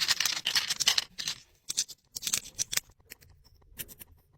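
Small plastic toy kitchen pieces being handled: dense scraping and rustling for about a second and a half, a couple of shorter scrapes, then a few light clicks near the end.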